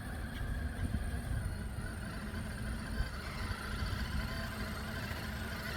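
Axial SCX6 Honcho 1/6-scale electric RC rock crawler's motor and geared drivetrain whining as it crawls over rocks, over a steady low rumble.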